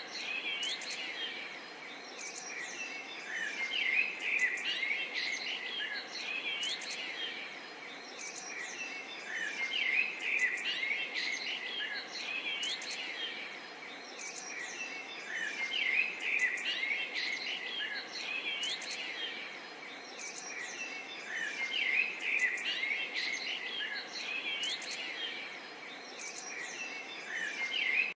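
A dense chorus of many birds chirping and calling together, growing louder about every six seconds, and cutting off abruptly at the end.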